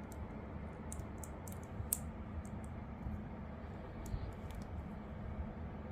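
Plastic Lego pieces clicking as they are handled and pressed together, a scattering of short, sharp clicks over a steady low hum.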